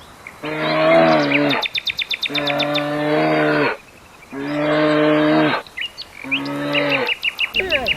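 Cow mooing four times, each moo about a second long, with rapid high chirping in the background between the calls. A different wavering call starts near the end.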